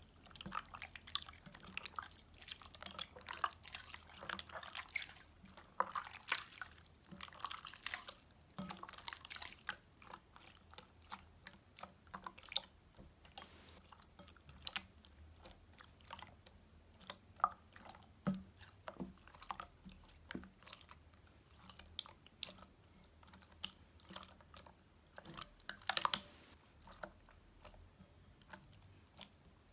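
Hands squeezing and working sticky slime, making irregular wet clicks, crackles and small pops, with a few louder snaps about nine, seventeen and twenty-six seconds in.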